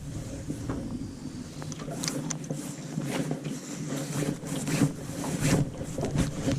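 Wind on the microphone over a steady low hum, with scattered light clicks and knocks throughout.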